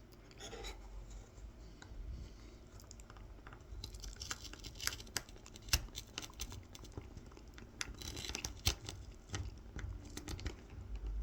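Tip of a Mora 106 carving knife scoring kolrosing lines into a carved wooden honey dipper: faint scratchy cuts and small clicks, coming in short clusters from about four seconds in.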